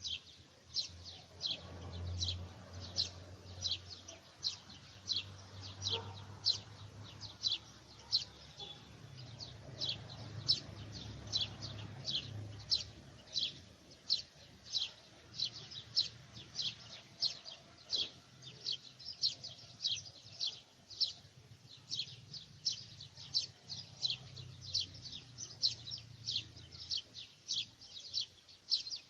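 A bird chirping over and over, short high chirps at about two or three a second in an even rhythm, over a faint low rumble.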